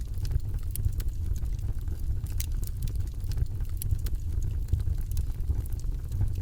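Wood fire in a fireplace burning with a steady low rumble, its crackles and pops snapping at irregular moments several times a second.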